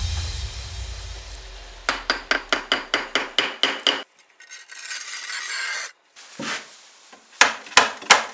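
Hand tool rubbing or rasping on building material in about a dozen quick, even strokes, roughly six a second. Some sharp knocks follow near the end.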